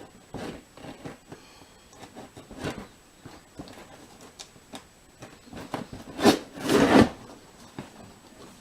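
A cardboard parcel and its packing being opened by hand: scattered rustling, rubbing and scraping, with two louder scraping strokes about six to seven seconds in.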